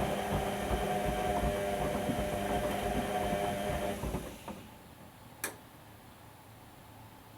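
Whirlpool washing machine drum turning, its motor giving a steady whine over irregular knocks of the load tumbling, then stopping about four seconds in. A single sharp click follows a little later.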